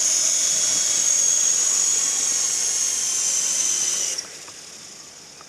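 Syma S031G coaxial RC helicopter's electric motors and rotors running with a steady high-pitched whine that cuts off suddenly about four seconds in, leaving a fading hiss as the rotors wind down.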